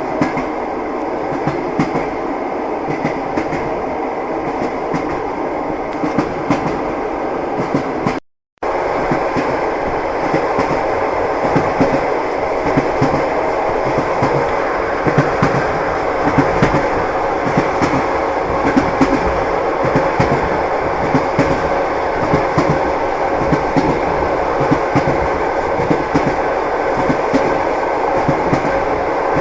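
Passenger train wheels clacking over the rail joints with a steady running rumble, heard from inside the carriage. The sound cuts out completely for a split second about eight seconds in.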